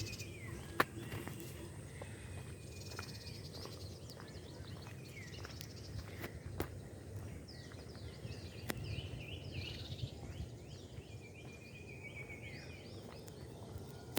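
Birds chirping over a low, steady outdoor rumble, with a run of quick falling calls from about halfway through. A few sharp clicks stand out.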